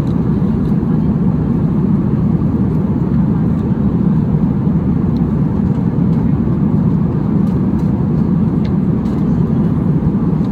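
Airliner cabin noise: a steady, loud, low rumble of jet engines and airflow.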